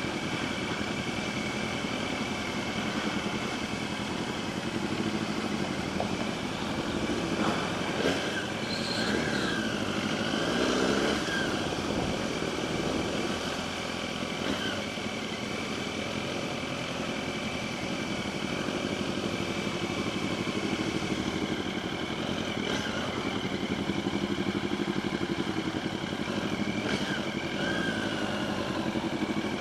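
Motorcycle engine running at a steady level while riding through city streets, with a short rise and fall in pitch around nine to eleven seconds in.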